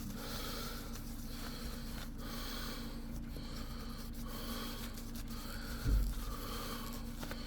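Tissue rubbing over a laptop heatsink's base to wipe off old thermal paste: soft, repeated wiping strokes about once a second over a steady low hum, with a single thump near the end.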